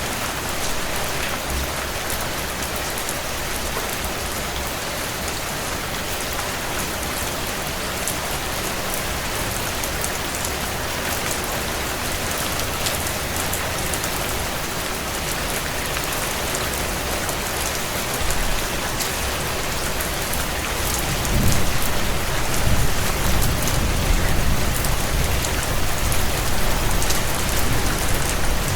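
Steady heavy rain on window panes mixed with a wood fire crackling in a stone fireplace, with fine ticks over the rain's hiss. About two-thirds of the way through, a low rumble swells up under the rain and stays.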